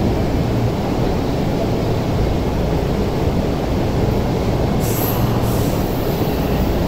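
A Tobu 50050 series electric train standing at an underground station platform with its doors shut, giving a steady low rumble. About five seconds in there is a short hiss of compressed air from the train.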